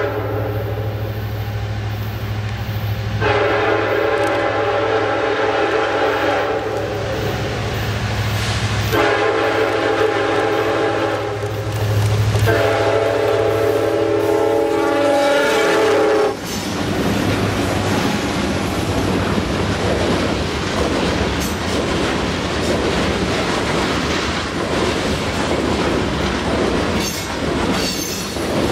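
Canadian National diesel locomotive's air horn sounding a series of long blasts over the engine's low rumble, cutting off abruptly about sixteen seconds in. After that, the steady rumble and clatter of the ore train's cars rolling past at speed.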